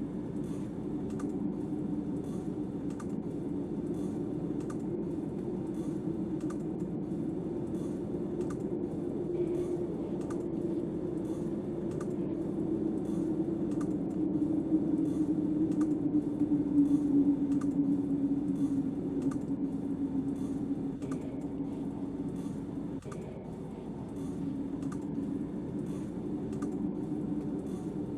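Steady low howl of snowstorm wind, swelling a little towards the middle, with faint clicks about twice a second.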